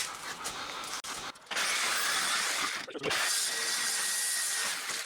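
Jigsaw cutting through a sheet-steel door with an old blade that may be a wood blade: a steady, harsh sawing noise, louder from about a second and a half in, with a brief pause near the middle and a stop at the end.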